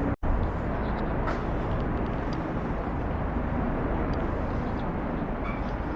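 Steady outdoor background noise with a low rumble, no distinct events, cutting out for a moment just after the start.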